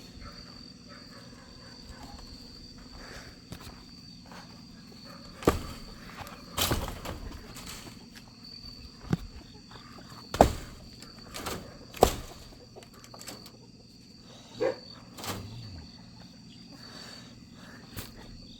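Steady high trilling of an insect chorus, with about seven sharp knocks and thuds scattered at irregular times, the loudest two a little past halfway.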